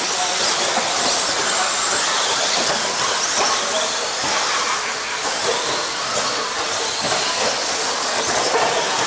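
Electric RC stadium trucks running on the track: a steady, even hiss of motors and tyres with no single standout event.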